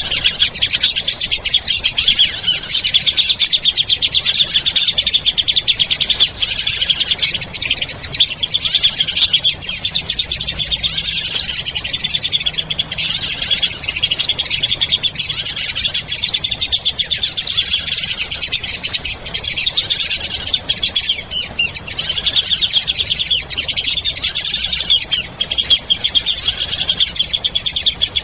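Bird-lure recording of small birds chirping and trilling, a dense, unbroken stream of rapid high-pitched calls.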